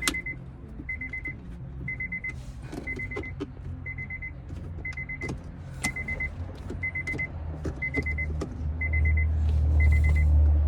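A 2003 Honda Accord's warning chime beeping steadily, about once a second, with scattered clicks and knocks of parts being handled. A low rumble grows louder near the end.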